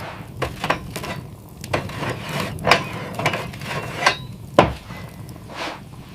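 Irregular wooden knocks and scraping, a dozen or so sharp clatters spread unevenly, the loudest a hard knock about four and a half seconds in.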